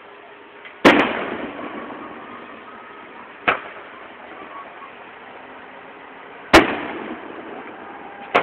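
Aerial fireworks bursting: a loud bang about a second in with a long echoing tail, a smaller pop about three and a half seconds in, and another loud bang near the end, with crowd noise between.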